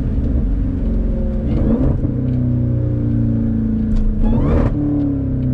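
Supercharged 6.2-litre Hemi V8 of a Jeep Grand Cherokee Trackhawk, tuned to about 1000 hp, running under acceleration while driving. Its note rises and then drops back a couple of times, as with gear changes.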